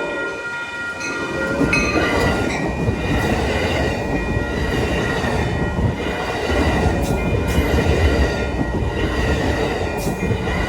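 A train passing close by, its wheels rumbling and clattering on the rails, with a thin steady squeal over the top. The tail of a horn blast cuts off about half a second in.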